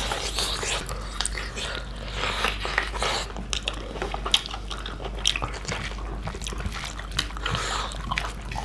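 Chewing and wet mouth smacks of people eating pig's feet curry with rice, with many small sharp clicks throughout.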